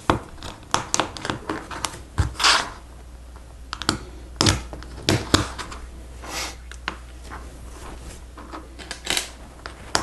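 Hard plastic Lego Technic pieces clicking and clattering as they are handled and snapped together, at an irregular pace, with a few short brushing swishes of parts being moved.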